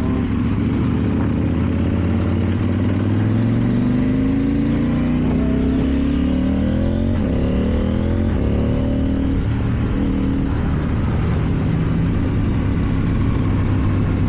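KTM Duke 790 parallel-twin engine through an Akrapovic exhaust, pulling up through the gears. Its pitch rises, drops at a shift about seven seconds in, rises again, then settles into steady running.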